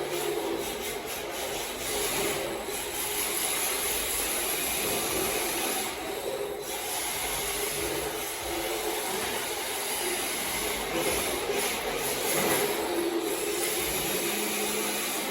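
MST RMX 2.0 electric RC drift car running laps: a motor whine that rises and falls with throttle, and its hard drift tires scrubbing and sliding across the floor.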